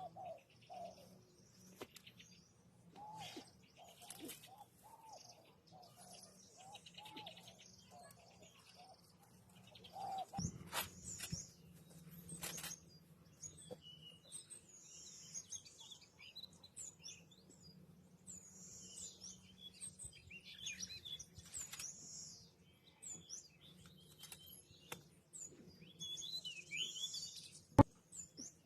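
Faint wild birds chirping and calling, with a repeated low call through roughly the first ten seconds and a single sharp click near the end.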